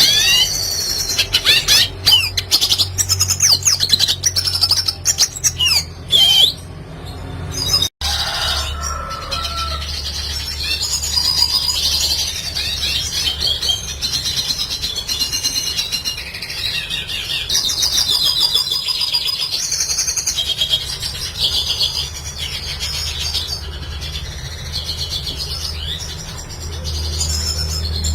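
Red siskin singing a long, rapid twittering song of quick sliding notes, over a steady low hum; the sound drops out for an instant about eight seconds in.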